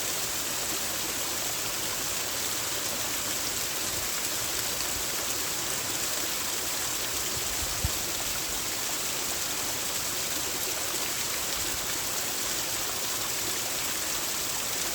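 Creek water running steadily over small waterfalls and cascades, an even splashing rush. A single brief low thump about eight seconds in.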